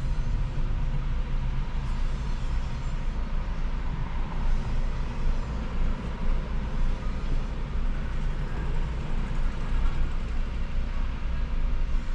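Steady road and traffic noise from a car being driven, with a continuous low rumble.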